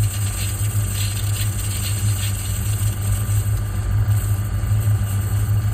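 Metal lathe running with a steady low hum while a grooving blade works on a piston valve, with light scraping from the cut in the first couple of seconds.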